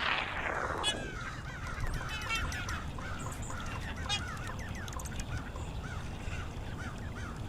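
A flock of geese honking, many short calls overlapping and repeating, over a steady low rumble.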